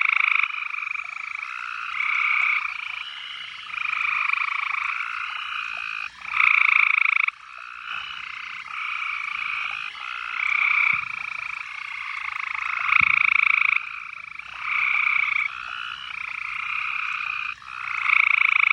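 A chorus of frogs calling, with long trilled calls following and overlapping one another, each lasting about a second.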